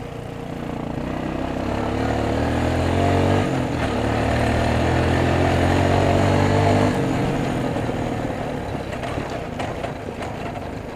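Four-wheeler (ATV) engine accelerating: the revs climb over the first few seconds, dip briefly about three and a half seconds in, hold high until about seven seconds in, then ease off.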